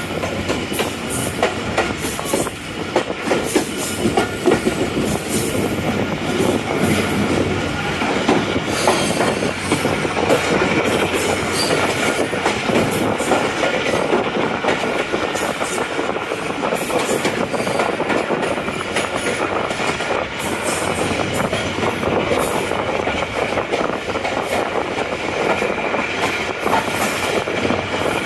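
Passenger train accelerating out of a station, heard from inside a coach: a steady run of rail noise with rapid, irregular wheel clacks over joints and points.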